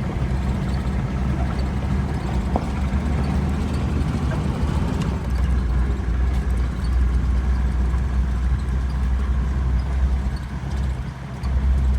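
Vehicle engine running with a steady low hum, with the rumble of the vehicle over the road; it eases off briefly near the end, then picks up again.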